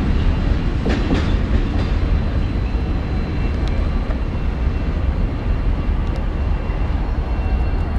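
Freight train of covered grain hopper cars rolling past with a steady rumble, the wheels clicking over rail joints about a second in.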